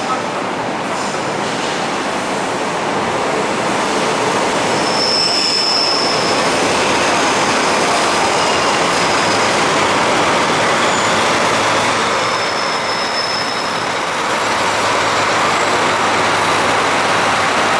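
Old passenger coaches of a night express train running on the rails: a steady rush of wheel and track noise that grows a little louder over the first few seconds. Thin high wheel squeals come in briefly about five seconds in and again from about eleven to fifteen seconds.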